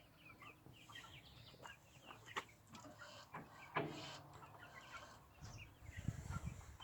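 Faint background bird calls, chirping and clucking like chickens, repeating throughout. Two sharp clicks come about two and a half and four seconds in, and there is a brief low rumble near the end.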